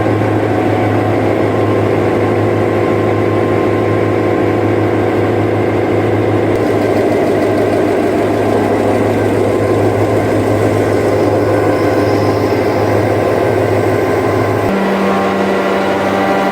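GM diesel generator's 16V71 engine, a two-stroke V16 diesel, running steadily just after starting from sitting idle. About 15 seconds in, the sound changes abruptly to a higher steady hum.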